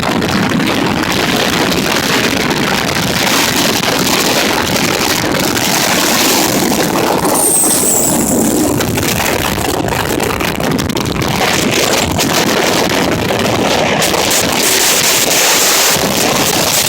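Storm-force winter wind of over 35 m/s blowing hard across the microphone: a loud, steady rush. A brief faint high whistle comes in about seven and a half seconds in.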